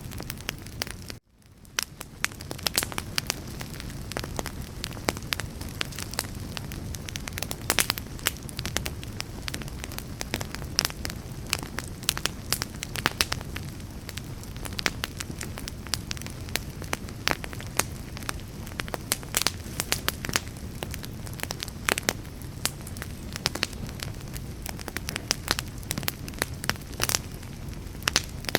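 Wood fire burning: irregular crackles and pops over a steady low rush of flame. The sound cuts out briefly about a second in and fades back up.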